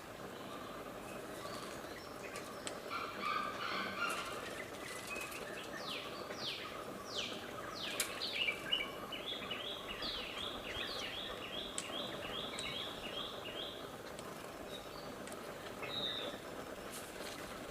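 Wild birds calling and singing over a steady background hiss. Midway there are four quick falling whistles, then a run of short repeated notes for a few seconds. Fainter chirps are scattered through the rest.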